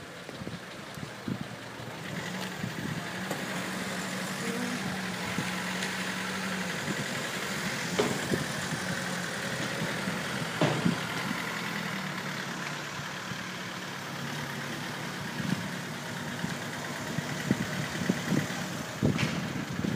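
Diesel taxi engines idling while parked in a queue: a steady low hum that grows louder over the first couple of seconds, with a few sharp clicks about eight and eleven seconds in.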